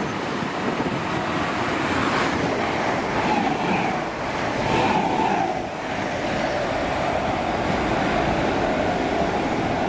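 Electric train running through the station: a steady rush of wheels on rail with a wavering whine over it.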